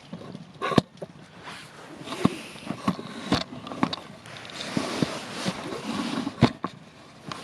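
Wood campfire crackling, with sharp pops scattered throughout and a hiss of burning that swells around the middle; two pops stand out, one about a second in and one near the end.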